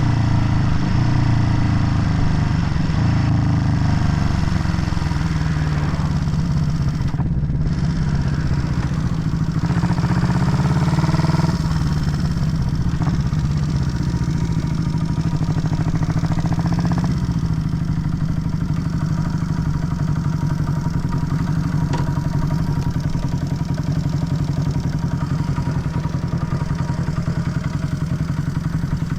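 Vintage Honda CB motorcycle engine running steadily while being ridden, with the revs rising and falling a few times around the middle.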